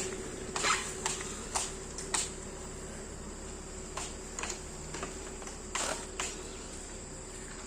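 Steady high-pitched insect trilling over a low steady hum, with about eight soft scattered clicks or scuffs.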